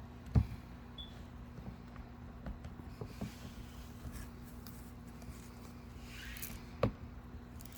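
Cockatoo moving about inside a cardboard box: scattered light knocks and scrapes on the cardboard, with two sharper knocks, one about half a second in and one near the end.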